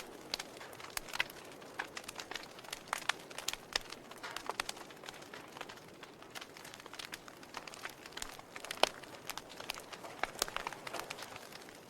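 Wood logs burning in a fireplace, crackling with irregular sharp pops over a faint steady hiss; one louder pop comes about nine seconds in.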